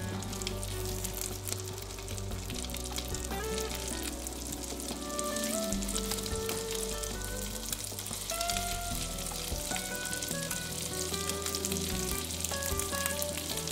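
Scallops searing in hot foaming butter in a frying pan: a steady sizzle with fine spitting pops, over soft background music.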